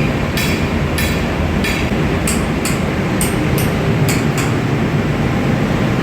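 Ship's engine-room machinery running with a loud, steady noise, with a run of about nine sharp clicks that stops about four and a half seconds in.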